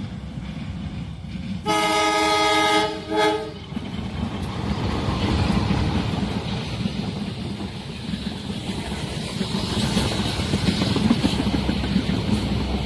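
Train horn sounding one long blast and then a short one, followed by the train's rumble and wheel noise building as it approaches and runs past.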